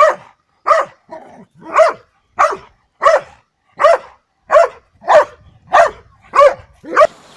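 A dog barking over and over in a steady rhythm, about one and a half barks a second, each bark short and loud.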